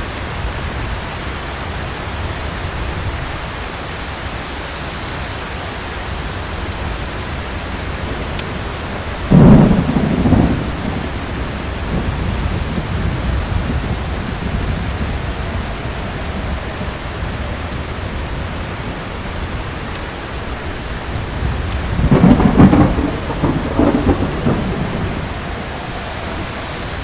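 Steady heavy rain with thunder rumbling: one short loud clap about nine seconds in, and a longer rolling rumble in several pulses about two-thirds of the way through.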